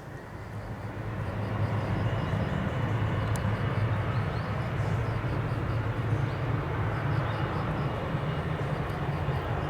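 Jet airliner passing low overhead: a rumbling roar that builds over the first two seconds, then holds steady and loud.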